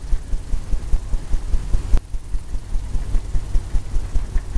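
Paintbrush working oil paint on a canvas, giving a low rumbling with quick, uneven thumps several times a second as the brush strokes and scrubs.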